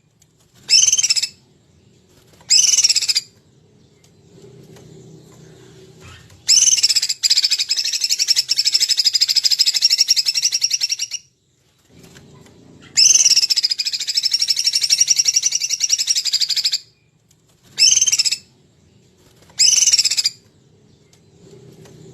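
A songbird singing rapid, buzzy trills: two short bursts, then two long trills of about four to five seconds each with a pause between, then two more short bursts.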